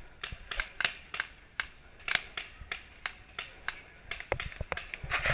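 Paintball markers firing: a steady string of sharp pops, several a second at an uneven pace.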